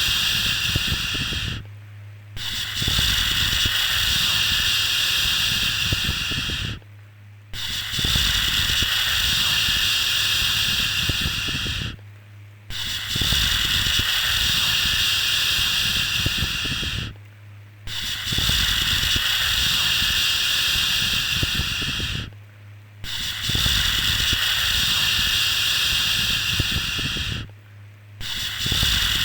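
Steady, repeated shushing 'shhh' for soothing a baby: each long hiss lasts about four and a half seconds, followed by a brief pause, repeating about every five seconds.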